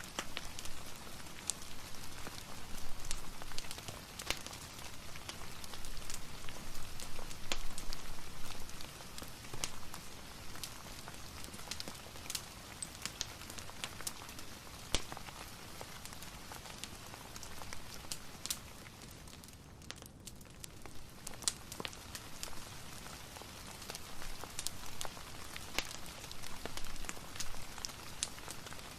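Steady soft rain mixed with a fireplace's crackle: an even hiss with sharp pops and snaps scattered irregularly through it.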